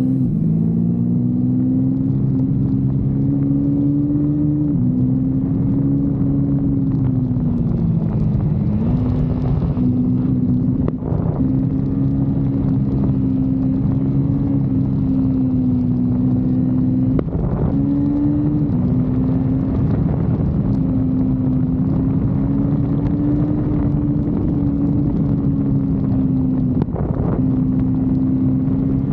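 Kawasaki Versys-X 250's parallel-twin engine running at high, fairly steady revs under way, its pitch dipping briefly and recovering about half a dozen times as the throttle is eased and reopened through corners or gears are changed.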